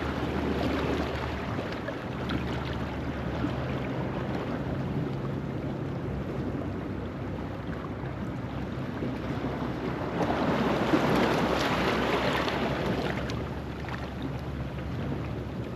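Low-tide waves washing on a rocky shore: a steady hiss of surf, with one louder surge of water about ten seconds in that lasts a few seconds and then falls back.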